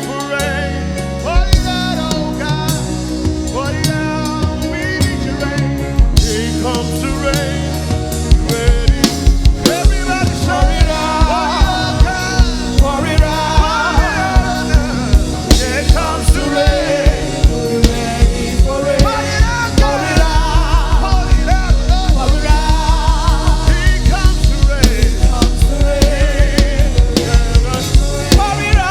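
Live gospel worship music: a vocal group singing with a band and drum kit. The drums settle into a steady beat, which grows denser and heavier about two thirds of the way through.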